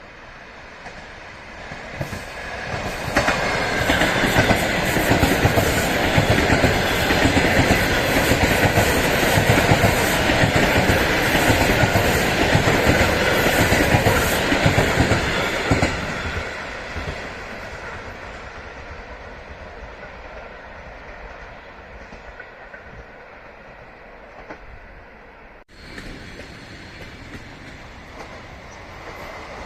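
A train passing close by at speed, its wheels clattering over the rails. It builds quickly, stays loud for about twelve seconds, then fades to a lower rumble as it moves away, with a brief break near the end.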